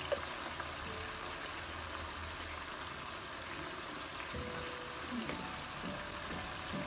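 Chicken and potatoes in a thick soy-sauce glaze sizzling steadily in a wok.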